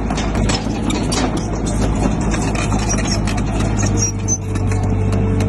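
Crawler bulldozer's diesel engine running steadily, with repeated sharp clanks and rattles over it. About four seconds in, the clatter thins out and the engine note steadies, with a higher tone added.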